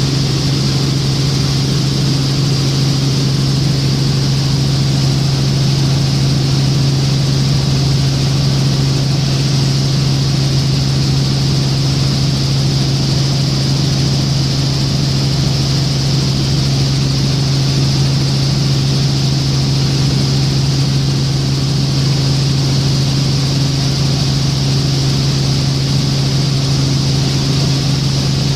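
Helicopter in flight, heard from inside the cabin: a steady low drone from the rotors and engine with a steady high whine above it.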